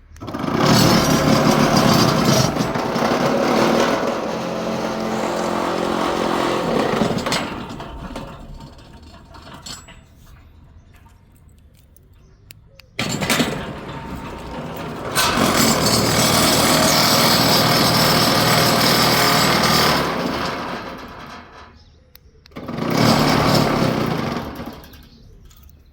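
Centurion D6 Smart sliding gate motor driving a steel sliding gate along its plastic rack, running loud with a rattling, vibrating clatter in three stretches: a long one, a second from about thirteen seconds in, and a short one near the end. The rattle is the sign of a loosely mounted motor and incorrectly spaced rack.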